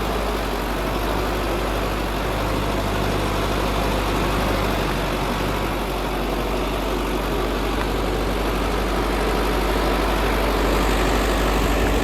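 Sonalika 750 tractor's diesel engine running steadily under heavy load, hauling a trolley loaded with soil up a steep slope.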